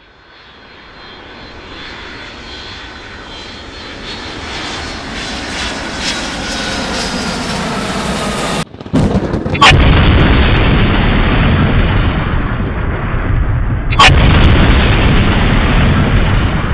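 Aircraft engines growing steadily louder as a plane approaches, with a thin whining tone over the noise. About nine seconds in the sound cuts off and comes back much louder as a dense, steady rumble, with two sharp clicks about four seconds apart.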